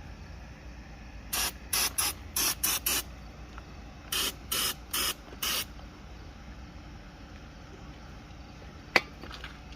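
Aerosol spray can giving short hissing squirts, about six in quick succession, then four more after a short pause. A single sharp click near the end.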